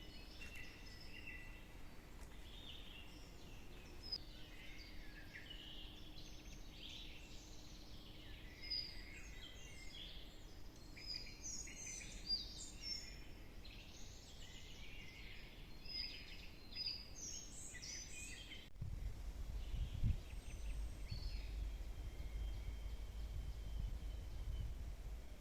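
Several forest birds singing, a dense mix of chirps and short trills. About three-quarters of the way through there is an abrupt cut, after which the birdsong is faint under a low rumble.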